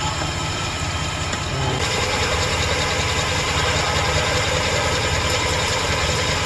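2008 Chevrolet Express van engine idling steadily, a misfire under diagnosis; about two seconds in its sound grows a little louder and brighter.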